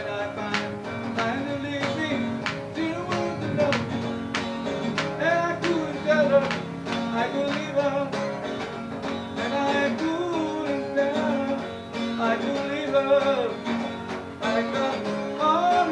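Acoustic guitar strummed in a steady rhythm, with a voice carrying the melody over it: a live performance of a self-composed song.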